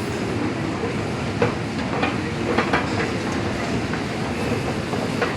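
Delhi Metro train running, heard from inside the carriage: a steady rumble of wheels on the track with a few sharp clicks in the middle.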